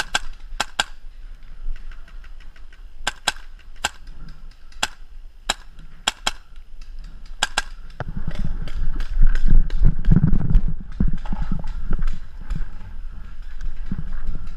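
Paintball markers firing single shots, sharp pops coming irregularly, often in pairs, through the first half. From about eight seconds in, a louder, rougher thudding and rustling noise takes over, with only a few more shots.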